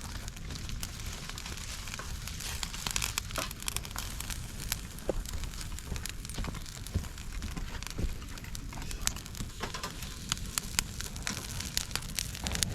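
Campfire of dry bamboo and small branches burning in a fire stand, crackling with many sharp, irregular pops and snaps over a steady hiss.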